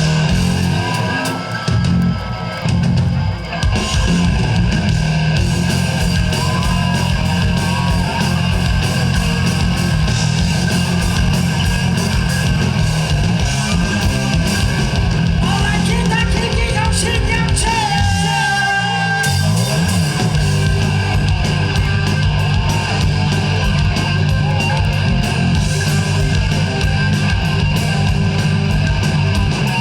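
Live rock band playing heavy rock at full volume: driving drums and bass under loud guitars, with a brief break about two-thirds of the way through before the full band comes back in.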